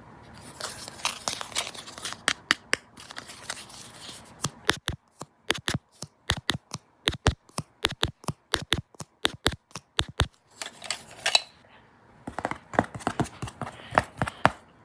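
Close-miked ASMR trigger sounds: a few seconds of scratchy rustling, then a fast run of sharp clicks, about four a second, lasting some six seconds, a short pause, and more clicks near the end.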